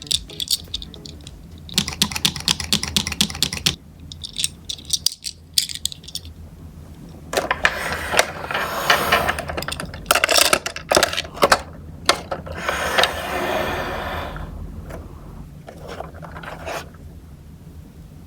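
Hands handling plastic and die-cast Tomica toy cars and a toy car carrier. About two seconds in comes a burst of rapid ratchet-like clicking, followed by rustling and scraping of plastic with scattered clicks.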